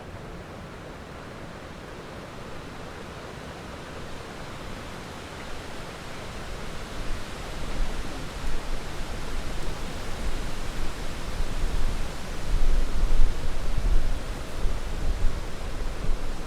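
Heavy rain falling steadily, with a low rolling rumble of thunder building from about halfway through and loudest near the end.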